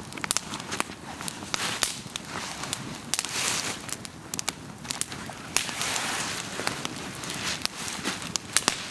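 Wood campfire crackling, with many sharp, irregular pops and a few longer stretches of hissing noise.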